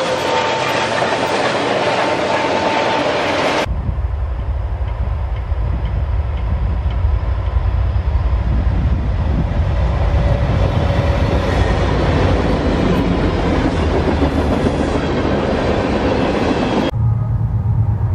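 Freight train passing close by, Norfolk Southern diesel locomotives with autorack cars in tow, the wheels clattering on the rails. After an abrupt cut, a Norfolk Southern diesel freight approaches with a steady low engine sound. Near the end another cut brings a different low, steady sound.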